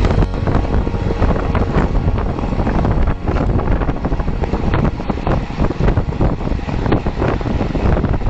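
Heavy wind buffeting on the microphone while riding at speed: a loud, steady rush with deep rumbling gusts.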